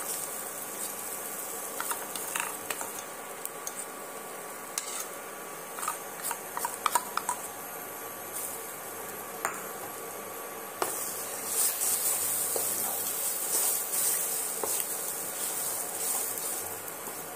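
Ground red-lentil paste sizzling in hot oil in a nonstick kadai, with a spoon clicking against the pan as the paste is scraped in. About two-thirds of the way through, the sizzle gets louder and a wooden spatula starts scraping and stirring the paste around the pan.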